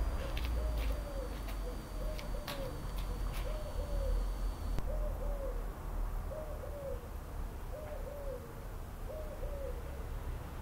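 A bird calling in soft, low two-note hoots, repeated about once a second. A thin high whine runs alongside and stops about five seconds in.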